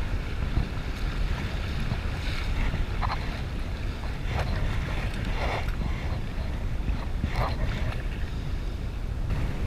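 Wind buffeting the microphone with a steady low rumble while a kayak is paddled, with a few water splashes from paddle strokes.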